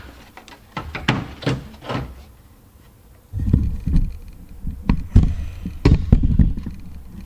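Hand work on a vehicle: a series of light clicks and knocks, then from about three seconds in a louder stretch of low thumps and rumbling handling noise with a few sharp knocks.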